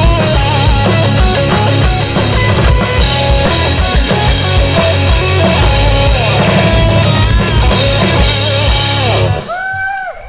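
Live rock band playing the instrumental end of a song, a loud full drum kit driving a steady beat under distorted guitars and bass. The band stops abruptly about nine seconds in.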